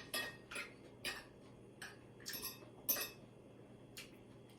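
Metal cutlery clinking and scraping against a plate during a meal: irregular sharp clicks, some in quick pairs, spaced about half a second to a second apart.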